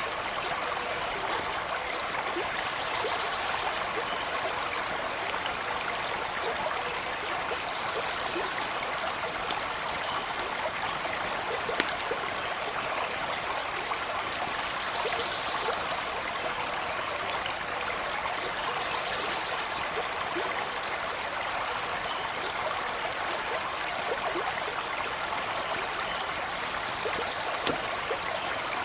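A stream running steadily, with a campfire crackling in scattered sharp pops throughout.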